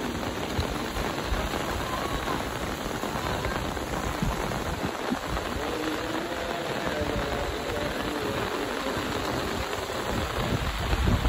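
Monsoon rain falling steadily, an even, dense hiss of drops on wet ground and surfaces.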